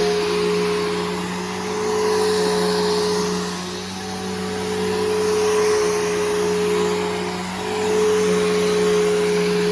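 Bissell Powerforce Helix Turbo upright vacuum running with a steady motor hum and whoosh of air. Its loudness rises and falls every few seconds.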